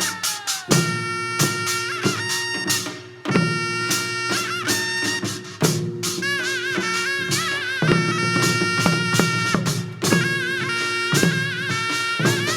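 Korean traditional gugak music for the Jindo drum dance: a reedy wind melody with wide, wavering vibrato over regular drum strokes.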